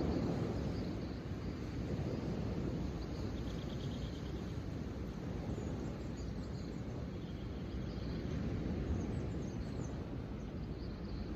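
Outdoor ambience: a steady low rumble with faint, scattered bird chirps and one short rapid trill about three and a half seconds in.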